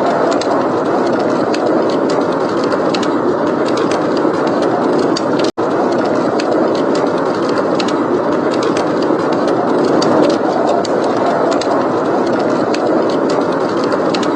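Steady blizzard wind as a constant rushing noise, with small sharp fireplace crackles scattered through it. The sound cuts out for an instant about five and a half seconds in.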